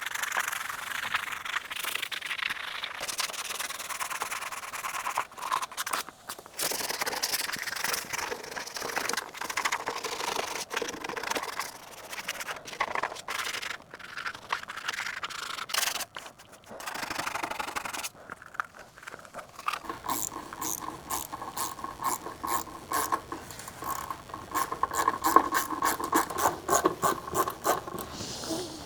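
Sandpaper rubbing on the metal of a car's engine bay in uneven strokes with short pauses. About twenty seconds in, the sanding turns into a faster, more rhythmic scraping.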